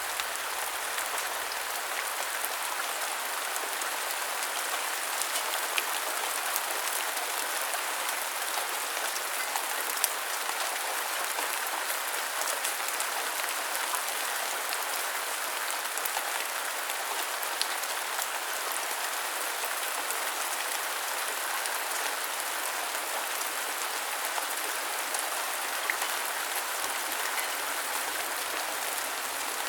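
Steady rain falling, a dense even hiss with many small individual drop ticks scattered through it.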